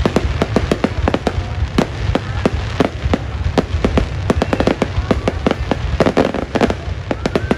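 Fireworks display: a rapid, irregular string of sharp bangs and crackles over a continuous low rumble.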